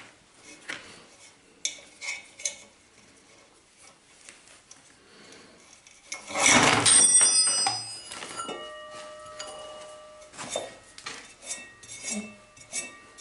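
Hand tools and metal compressor parts clinking and knocking during hand disassembly of an old two-cylinder air compressor. About six seconds in comes a loud metal clatter, leaving several ringing tones that die away over a couple of seconds, followed by more scattered clinks.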